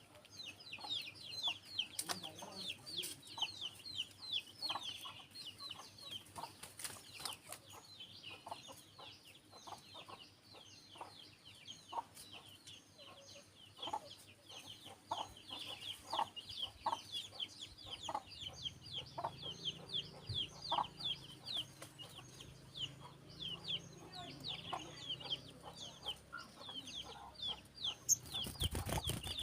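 Continuous, dense high-pitched chirping of small birds, many quick chirps a second, with lower clucking calls scattered through. A low hum joins about two thirds of the way in, and a loud thump comes near the end.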